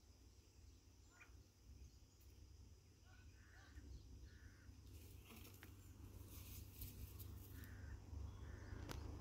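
Quiet outdoor background with a bird giving a few short, faint calls, some in quick pairs.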